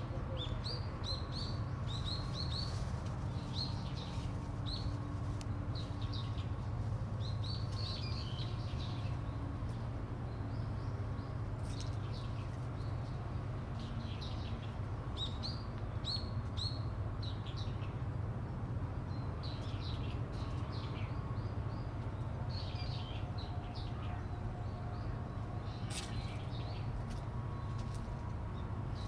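Small birds chirping, short repeated calls through the whole stretch, over a steady low hum.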